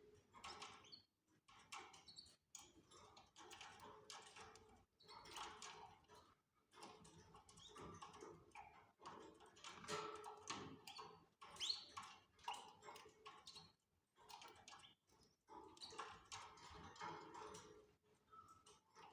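Canaries in a breeding cage: light irregular taps and scratches from the birds moving and pecking, with a few faint short chirps.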